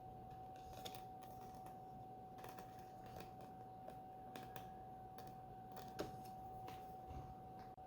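Faint, scattered short clicks and taps, one sharper than the rest about six seconds in, over a steady high-pitched electrical hum.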